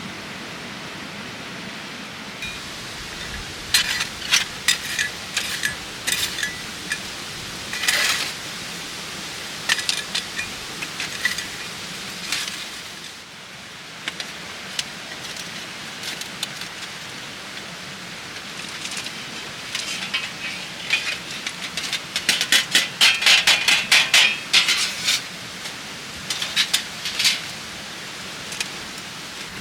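Clusters of sharp clicks and clinks, like camp gear being handled, over a steady rushing noise. The clicks come in short runs, thickest a little after the middle and fading out near the end.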